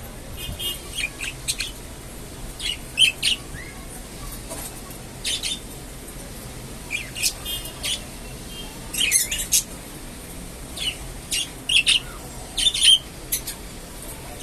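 Budgerigars chirping and warbling: short, high calls come in quick clusters throughout.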